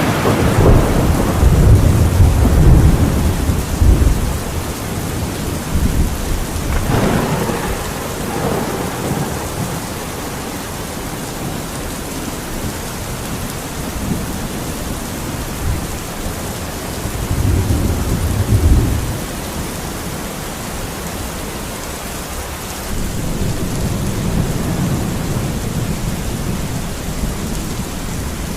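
Steady rain falling in a thunderstorm, with thunder rumbling low several times: a long roll at the start, and shorter rumbles about a third of the way in, past the middle, and near the end.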